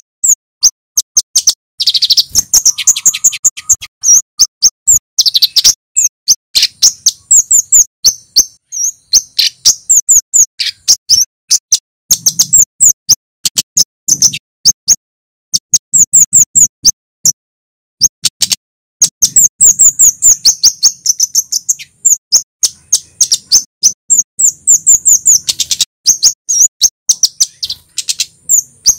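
Male kemade, a flowerpecker, calling in fast runs of sharp, very high chip notes with brief pauses between runs.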